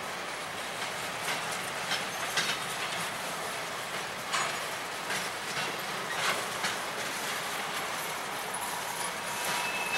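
Norfolk Southern freight train rolling past: a steady rumble of wheels on rail with scattered clicks and clanks from the cars, and a brief high squeal near the end.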